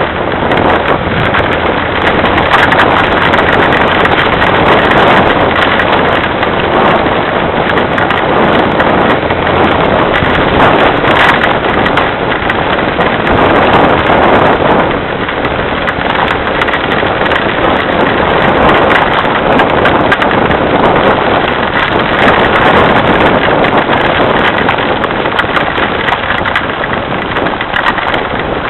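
Heavy rain falling and pattering on surfaces: a loud, steady, dense hiss of countless drops that eases slightly about halfway through.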